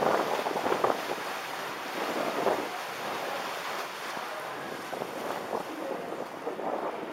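Wind buffeting the microphone over the steady rush of a river tour boat moving through the water.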